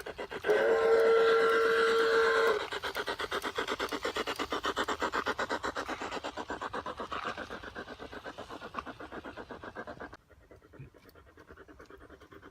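Garden-scale model steam locomotive's sound system blowing a steady whistle, then chuffing in a rapid even rhythm that fades away about ten seconds in.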